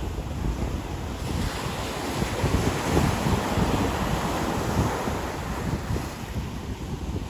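Ocean surf breaking and washing up a beach: the wash swells about a second in and eases off near the end, with wind buffeting the microphone.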